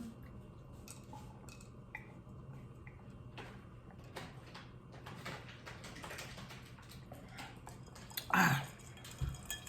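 Faint scattered clicks and light clatter of dishes and utensils being handled, with one short falling voice sound near the end.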